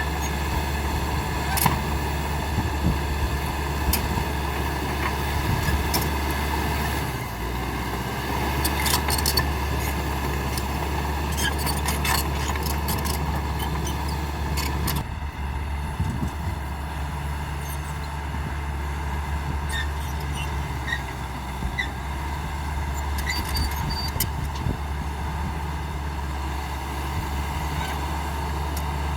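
Caterpillar D5K XL bulldozer's diesel engine running steadily under work, with scattered sharp clicks and knocks from the machine at work; the engine's sound changes abruptly about halfway through.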